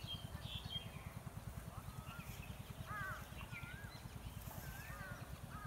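Birds calling with short whistled notes that rise and fall, repeated several times, over a steady low pulsing rumble.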